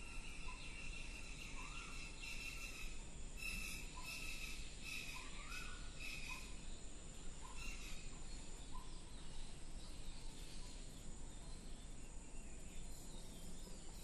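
Birds calling over steady outdoor background noise: short notes repeated every second or so, a few rising whistles, and a higher held call through the first half.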